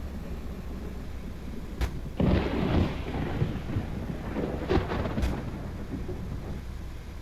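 Thunder: a sharp crack a little under two seconds in, then a loud crackling peal, with more cracks about five seconds in, over a steady low rumble.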